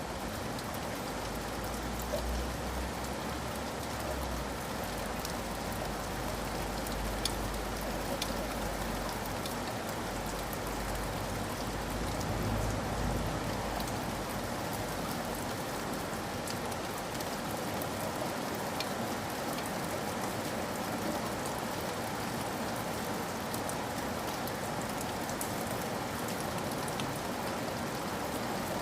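Steady rain falling, a constant hiss with scattered sharper drops ticking through it. A low rumble sits underneath through the first half.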